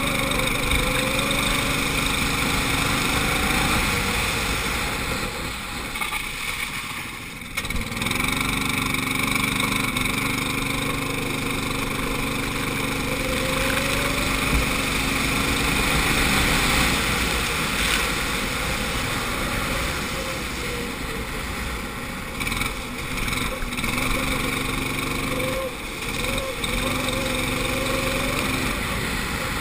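Go-kart engine heard onboard, its revs climbing and falling over and over as the throttle is opened and lifted, with a sharp lift-off about a quarter of the way in and another near the end.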